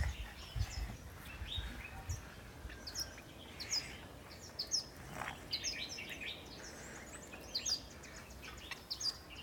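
Small birds chirping: many short, high notes that sweep downward, in quick scattered bursts, busiest in the second half.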